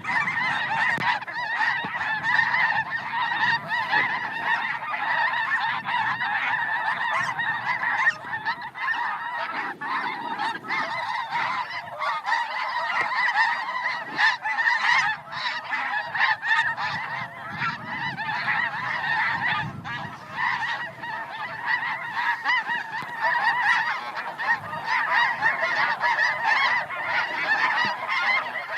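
A large flock of snow geese calling continuously, many high-pitched honks overlapping into a dense, steady chatter.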